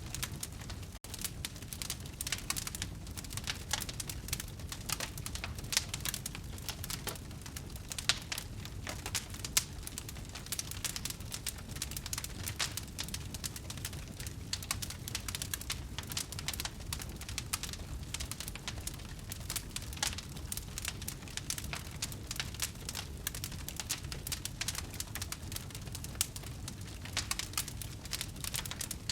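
Wood fire crackling: a dense, uneven run of small snaps and pops over a low steady rumble, with a few louder pops standing out.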